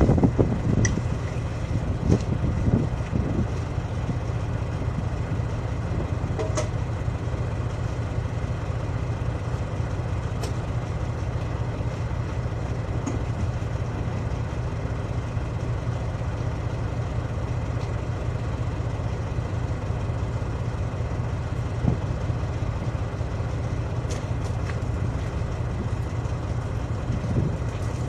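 A heavy diesel engine idling steadily with a low hum, and a few light metallic clicks here and there.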